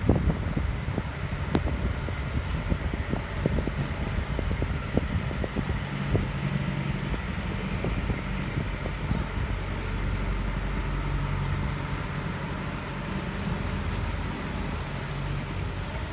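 Road traffic on a wet city street: a steady low engine hum with the hiss of tyres on wet tarmac.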